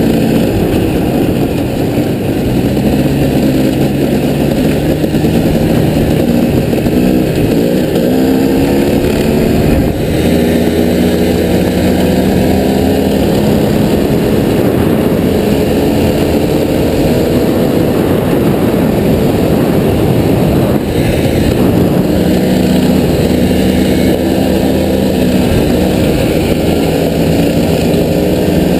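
Off-road vehicle engine running continuously under way, its pitch rising and falling with the throttle, the clearest swings about a quarter and a third of the way in.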